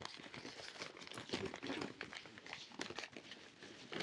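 Brown paper bag crinkling and rustling in irregular small crackles as it is opened by hand, with dry wood shavings rustling inside.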